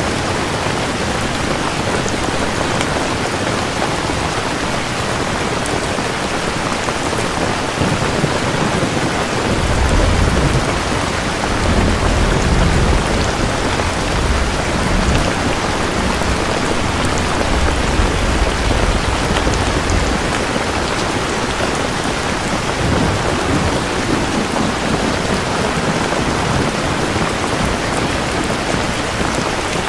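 Steady rain falling, with a long low rumble of thunder rolling from about ten seconds in and fading out some ten seconds later.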